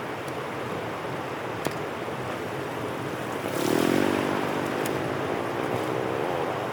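Drain water rushing steadily through a cleared channel. About three and a half seconds in, a louder, wavering drone with several overtones joins it and carries on to the end.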